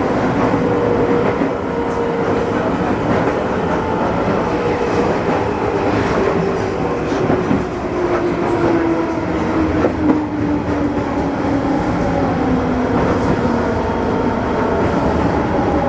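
Izuhakone Railway Sunzu Line electric train heard from inside the car. The traction motors' whine falls steadily in pitch as the train slows for a station stop, over a running rumble of wheels on rail with scattered clicks from the rail joints.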